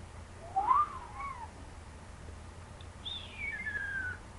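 Pet bird whistling twice: a short rising-and-falling whistle, then a longer whistle that slides downward.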